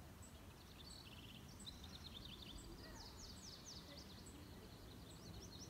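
Faint birdsong: small birds chirping and trilling in quick runs of falling notes, over a low background rumble. A faint high tick repeats about every three quarters of a second.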